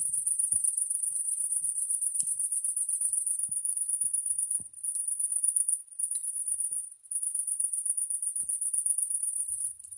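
High-pitched, fast-pulsing chirring of a cricket, broken off briefly a few times, over faint scattered pops and crackles from a bonfire.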